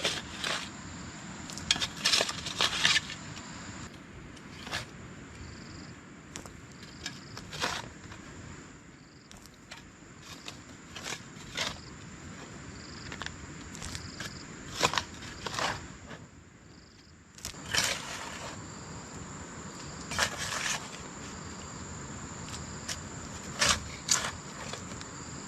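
Irregular crunching and scraping strokes, a few every couple of seconds, over a steady high-pitched insect drone.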